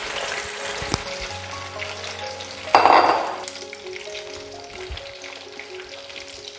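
Quail pieces sizzling in hot oil in an aluminium kadai, with a spatula stirring and turning them. About three seconds in the sizzle swells into a loud burst as a piece is turned, then settles back to a steady sizzle.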